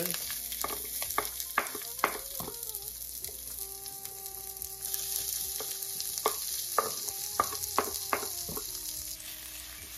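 Sliced green chillies and diced onion sizzling as they drop into hot oil in a stainless steel frying pan, with sharp knocks and scrapes as a knife pushes them off a wooden chopping board onto the pan. The sizzle eases a little near the end.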